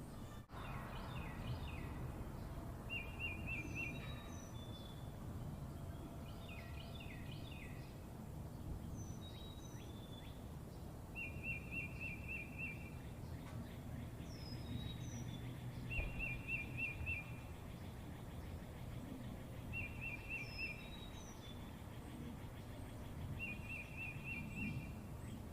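Birds calling: a short rapid trill repeated every few seconds, with high thin chirps in between, over a steady low background rumble.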